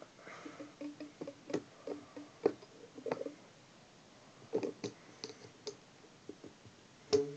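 Scattered clicks and taps of a rubber drive belt being stretched onto a small electric motor and a plastic shaft, with several short twangs from the elastic belt; a louder click near the end.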